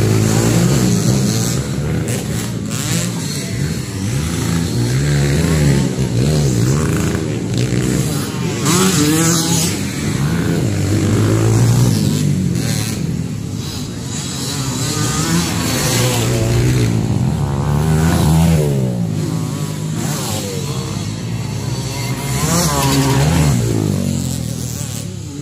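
Several motocross dirt bike engines revving up and down as they race, their pitch rising and falling over and over and overlapping.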